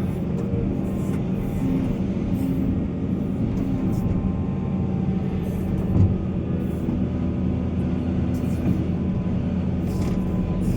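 Heavy diesel engine of mining machinery running steadily at a low, even pitch, with a single thump about six seconds in.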